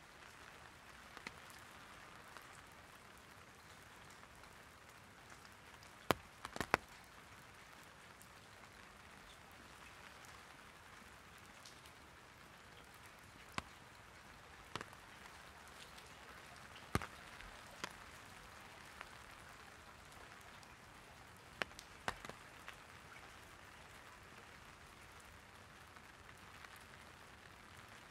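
Light rain falling on an umbrella: a faint steady hiss with scattered sharp taps of larger drops, the loudest a cluster about six to seven seconds in.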